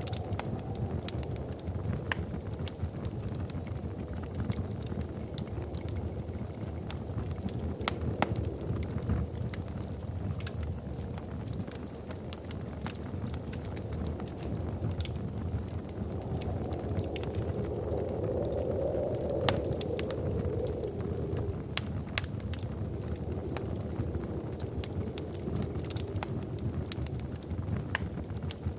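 Wood fire crackling in a fireplace: scattered sharp pops and snaps over a steady low rush of burning. For a few seconds around the middle the rushing swells and then settles.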